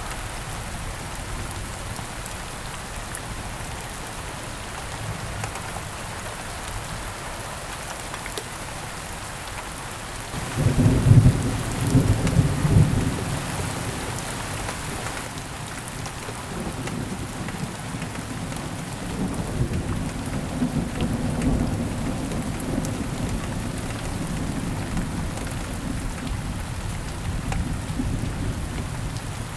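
Steady rain falling on foliage, with a sudden loud crack and rumble of thunder about a third of the way in and a second, softer rolling rumble some seconds later.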